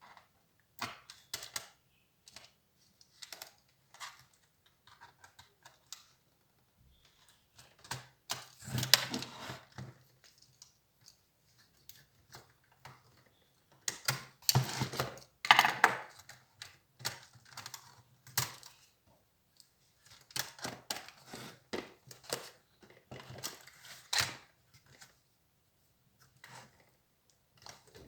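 HP Compaq 6910p laptop parts being handled during disassembly: irregular plastic and metal clicks, taps and rattles, with louder clusters of handling about a third of the way in, around the middle and again later.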